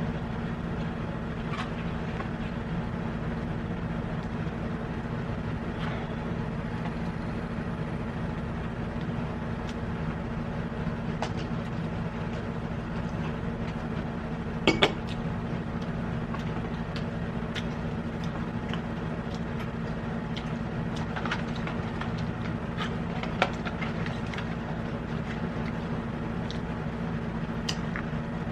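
Steady low hum with scattered soft clicks and clinks of eating and handling food and utensils, and one sharper click about halfway through.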